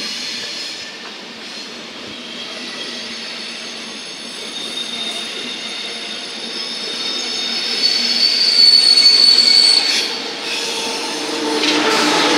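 ICE high-speed train moving through the station's curved track, its wheels squealing in several high tones that grow louder, loudest about eight to ten seconds in. Near the end a lower drone rises as the power car comes by.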